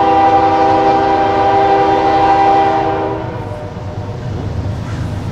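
Diesel locomotive air horn, CN SD70M-2 8872, sounding one long multi-note chord that cuts off a little after three seconds in, over a steady low rumble.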